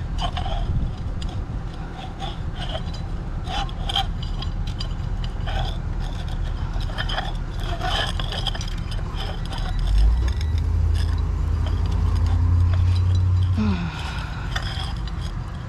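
Scattered clinks and scrapes of metal and glass scrap being handled, over a steady low rumble. The rumble swells louder for about four seconds in the last third, then eases off.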